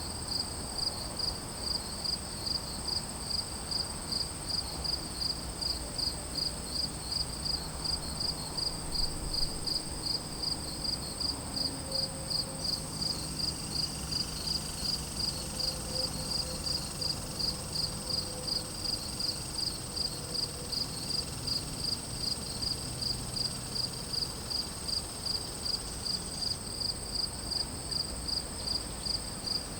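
Crickets chirping steadily, about two high chirps a second, over a continuous high-pitched insect trill.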